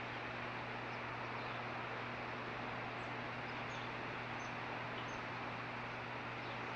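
Freight train passing as a steady rushing rumble with a low hum, and a few faint, short, high chirps from a juvenile osprey in the second half.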